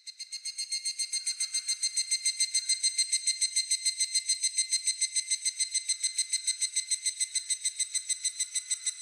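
Higurashi (evening cicada) calling: a high, ringing trill of rapid, even pulses that starts suddenly and swells over the first second or two, then holds steady.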